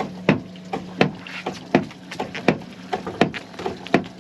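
Striper thumping: the boat's hull struck in a steady rhythm, a sharp knock about every three-quarters of a second, to draw striped bass under the boat.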